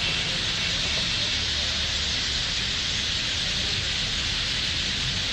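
Dense, steady din of thousands of birds calling at once as they settle into a roost tree for the night, a continuous high chatter with no single call standing out.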